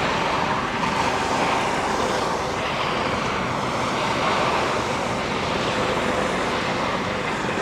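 Steady rushing noise of surf and wind on the microphone, with a faint steady drone in the middle.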